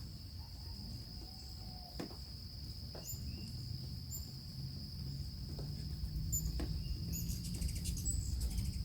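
Steady high-pitched insect trill of crickets, with short high chirps from hummingbirds several times from about three seconds in, over a low outdoor rumble.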